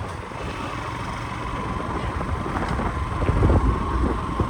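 A vehicle travelling on a road with wind on the microphone: a steady road and engine rumble that swells briefly about three and a half seconds in.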